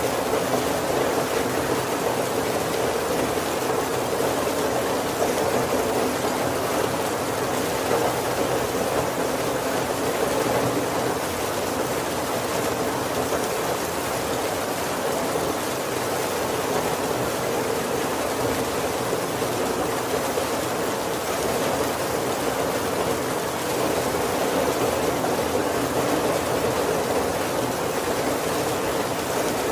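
Heavy rain falling steadily on a wooden carriage's roof and windows, an even patter with no thunder.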